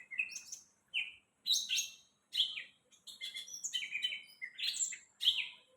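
Green leafbird (cucak ijo) in full song: a rapid, varied string of chirps, whistles and slurred notes in short phrases with brief pauses between them.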